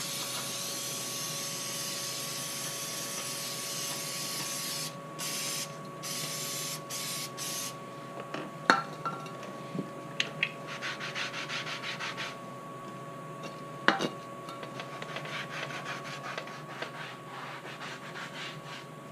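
Cleaning up spilled oil: a steady spraying hiss that breaks into short bursts after about five seconds, then rubbing and scrubbing strokes with two sharp knocks.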